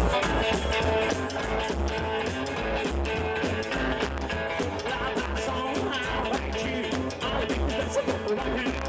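Rockabilly band playing without vocals: guitar over a steadily pulsing bass line with drums.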